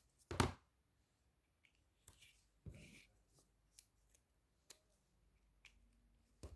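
Quiet paper-crafting handling sounds: a soft thump about half a second in, a brief rustle of paper near three seconds, then a few light taps and ticks as ribbon and tape are handled.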